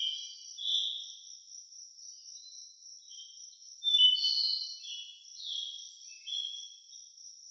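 Crickets trilling, a steady high-pitched drone with louder chirps coming and going over it, the strongest about four seconds in.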